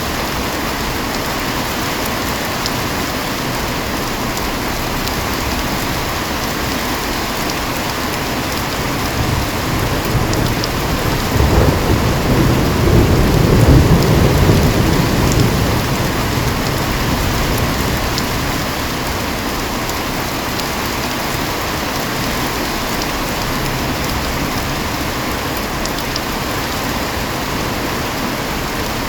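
Heavy rain falling steadily, with a long rumble of thunder that builds about a third of the way in, peaks near the middle and slowly dies away.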